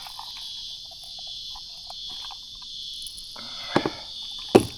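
Insects singing in a steady, high-pitched drone, with two sharp knocks near the end.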